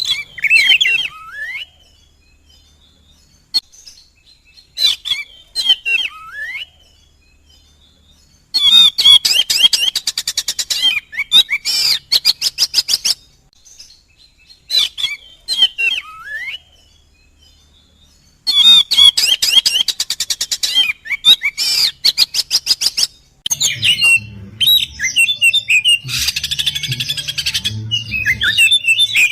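Oriental magpie-robin (kacer) singing aggressively: short phrases of sweeping whistled notes alternate with long, fast trills of rapidly repeated notes, and near the end there is a spell of harsh, scratchy chattering. The same sequence of phrases comes round again about every ten seconds.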